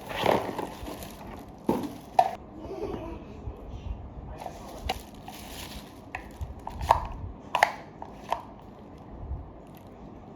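Unpacking and handling sounds: packaging rustling in bursts, with a few sharp clicks and knocks of hard plastic parts being set down or handled.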